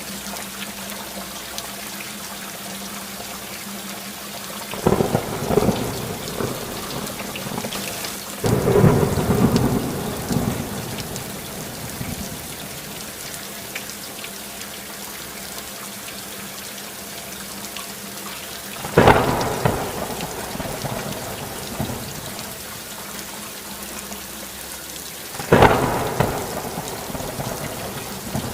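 Steady heavy rainfall with four cracks of thunder, each starting suddenly and rumbling off over a second or two, about 5, 8 and a half, 19 and 25 and a half seconds in.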